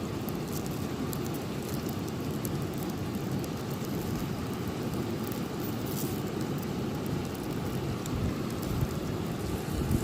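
Campfire burning with a steady low rush and scattered sharp crackles and pops.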